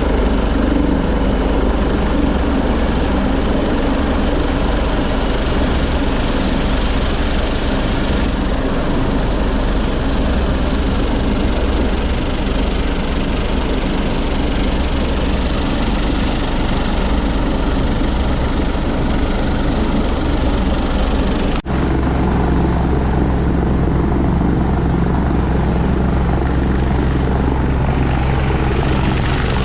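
Helicopter running loudly and steadily: rotor and turbine noise without a break in intensity. About two-thirds of the way through the sound cuts briefly, then continues lower and steadier, with a deep steady hum.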